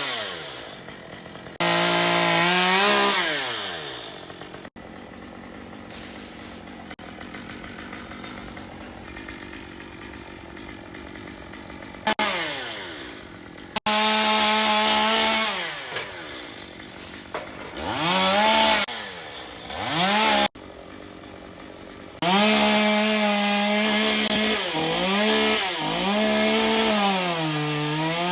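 Gas chainsaw revved up in repeated bursts and dropping back to idle in between. Near the end comes a long high-rev run whose pitch dips and recovers several times, as the chain bites into wood.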